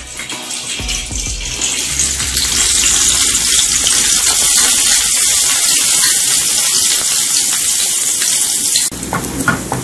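Minced garlic and chili sizzling in hot oil in a wok, frying until fragrant. The sizzle builds over the first couple of seconds, holds as a steady loud hiss, and drops abruptly near the end.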